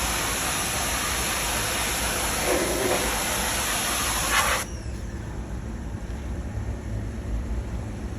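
Pressure washer spraying water onto refrigeration condenser coils to clean off built-up dirt, a loud steady hiss that cuts off abruptly about four and a half seconds in. A low steady rumble continues underneath.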